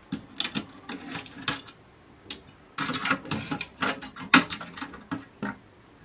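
Rapid clicks, scrapes and rattles of small metal parts and tools being handled while an electronics box is taken apart, in bunches with a short lull in the middle. The loudest is a sharp click a little past four seconds in; it goes quieter near the end.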